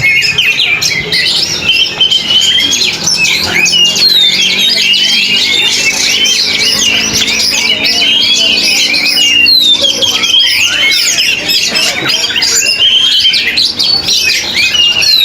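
Oriental magpie-robin (kacer) singing loudly and without pause: a fast, dense run of short whistles, slurs and chattering notes.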